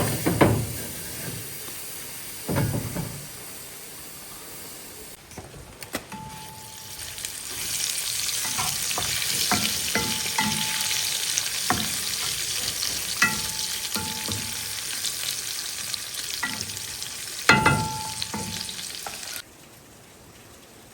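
Food sizzling as it fries in a pan, with a utensil stirring and knocking against the pan, some knocks ringing briefly. The sizzle grows louder about a third of the way in and cuts off abruptly near the end.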